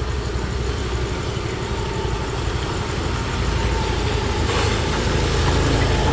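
A motor vehicle's engine running steadily close by, growing a little louder about halfway through.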